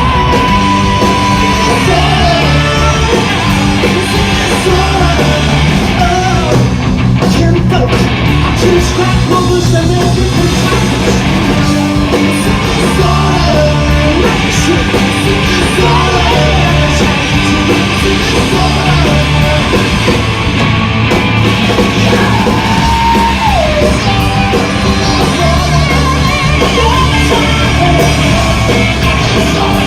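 Live punk rock band playing loud and fast: distorted electric guitars, bass and drums, with shouted vocals over the top.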